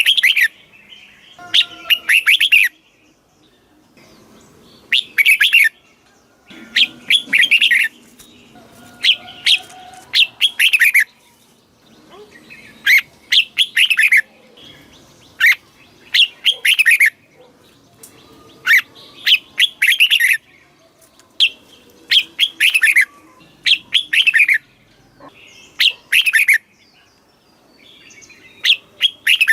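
Red-whiskered bulbul singing: short, bright whistled phrases, repeated about every two seconds.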